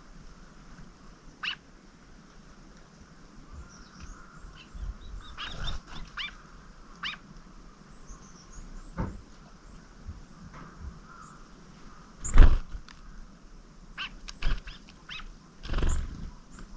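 Small wild birds: faint high chirps and short call notes, with irregular sharp knocks and taps close to the microphone, the loudest about twelve seconds in.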